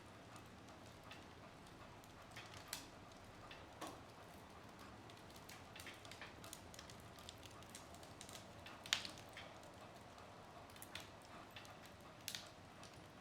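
Wood fire crackling in a fireplace: scattered sharp pops and snaps from the burning logs over a faint steady hiss, the loudest pop about nine seconds in.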